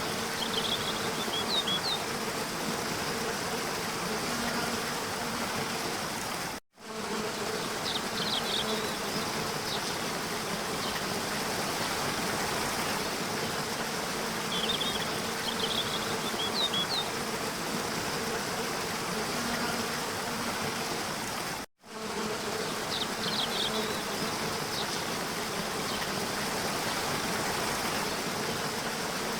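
Steady rush of falling water, with clusters of short, high bird chirps every few seconds and a faint low buzz underneath. The sound cuts out for an instant twice, about 7 and 22 seconds in.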